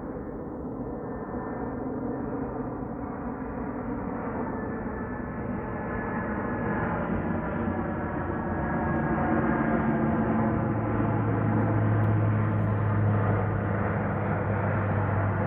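Arriving airliner approaching to land, its engine drone growing steadily louder. Several steady tones sit over a noisy rush, and a strong low hum comes in about ten seconds in.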